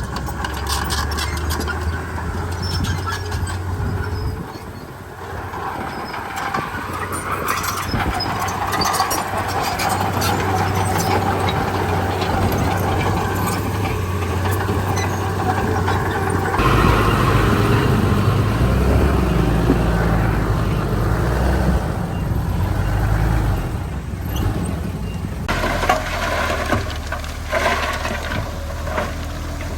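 Diesel engines of a Komatsu D31P bulldozer and dump trucks working a landfill, running steadily and getting louder under load about halfway through. High squeals and a few short clanks come near the end.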